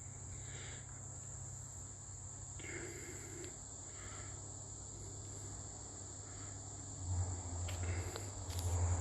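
Insects in the forest trilling steadily at one high pitch, with a low rumble on the microphone in the last two seconds.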